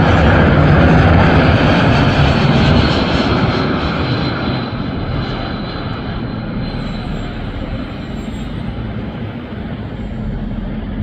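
Airbus A220-300's Pratt & Whitney PW1500G geared turbofan engines on landing, a jet roar that is loudest in the first few seconds and then slowly fades as the aircraft moves away.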